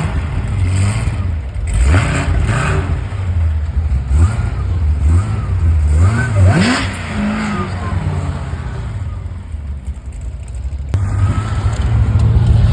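A car engine is revved several times, its pitch climbing and dropping with each blip, between stretches of a loud, steady low idle.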